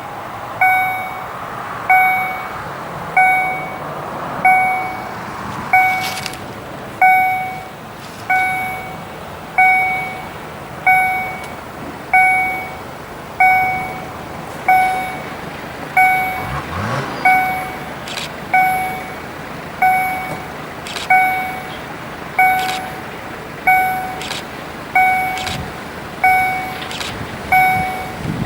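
Railway level-crossing warning bell ringing in an even, repeated ding, roughly once a second. A road vehicle passes briefly about halfway through.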